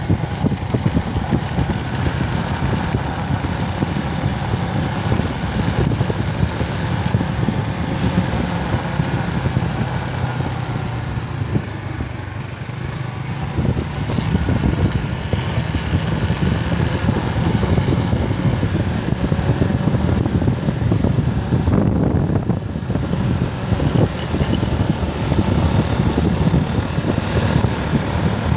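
Motorcycle engine running under way, with road and wind noise mixed in. The level dips for a couple of seconds a little before halfway, then comes back up.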